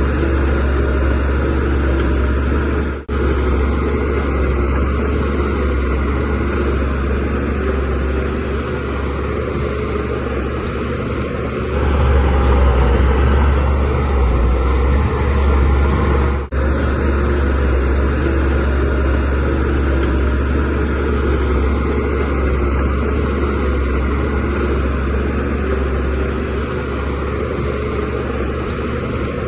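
Shantui DH17C3Pro bulldozer's diesel engine running steadily under work, a deep drone that grows louder for a few seconds around the middle. The sound briefly drops out twice, a few seconds in and just past halfway.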